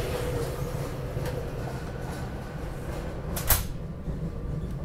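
Steady low rumble inside a SEPTA Regional Rail passenger car, with one sharp knock about three and a half seconds in.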